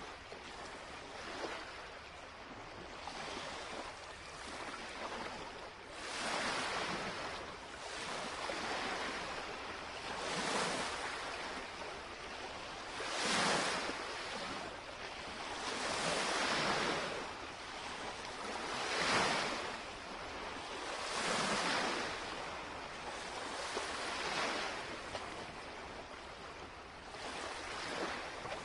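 Small lake waves lapping against the shoreline, each wash swelling and fading about every two and a half to three seconds.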